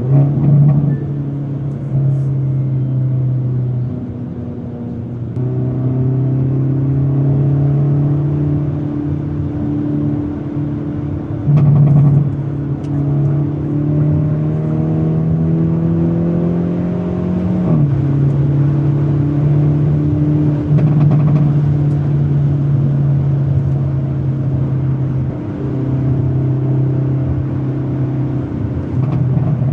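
Hyundai Elantra N's 2.0-litre turbocharged four-cylinder engine and exhaust under way, a steady drone. The pitch climbs gradually as the car pulls in gear and drops suddenly about 18 seconds in at a gear change. Brief louder swells come about a second in and again around 12 seconds.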